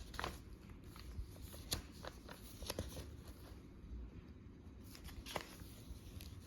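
Paper handling: pages of a hardcover journal being turned and smoothed, short rustles with a few light taps.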